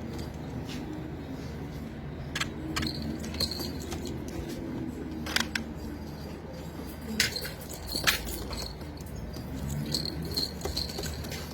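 Domestic pigeons cooing low, with scattered sharp clicks and rattles and a few short high chirps in the second half.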